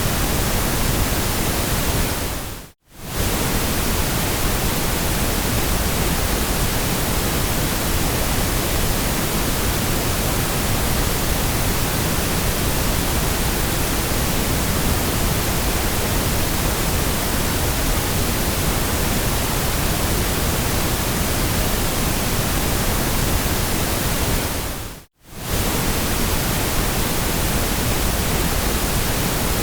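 Steady white-noise hiss, even across low and high pitches, that fades out and straight back in twice, about three seconds in and again near the end: the seams where the noise track loops.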